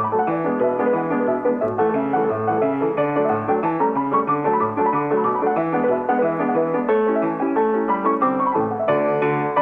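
Background piano music: a continuous run of quick notes with no other sound standing out.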